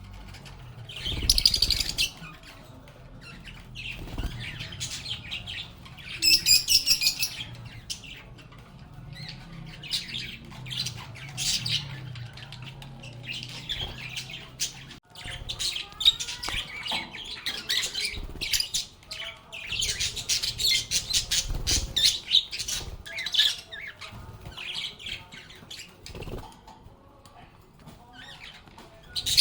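Lovebirds chattering and squawking: a continuous stream of shrill chirps and rapid clicky calls, with louder squawking bursts about a second in and again around six seconds.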